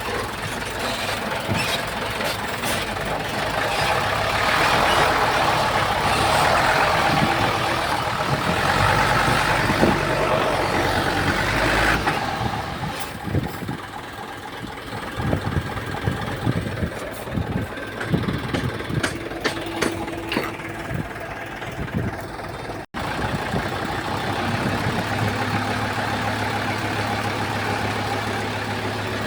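Komatsu D31P bulldozer's diesel engine working hard for about twelve seconds, then dropping back, with a run of short knocks and clanks. After a brief cut, a steadier engine hum.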